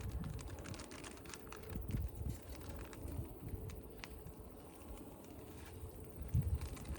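Small wood fire crackling in a Solo Stove camp stove: scattered sharp pops and ticks, with a few low rumbling thuds.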